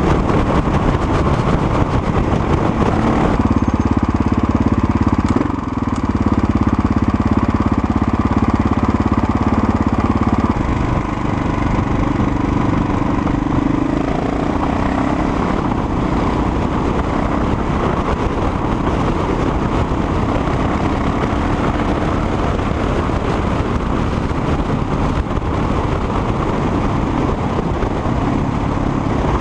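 Motorcycle engine running steadily under way, its note and loudness changing abruptly a few times.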